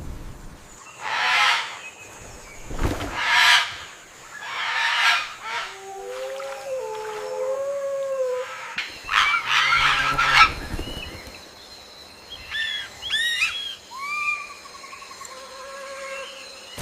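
Birds calling: a series of harsh, raspy squawks through the first ten seconds or so, then short whistled and chirping notes near the end.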